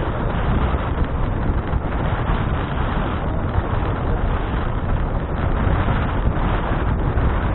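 Wind buffeting an action camera's microphone while riding a bicycle: a steady rush of noise, heaviest in the low end.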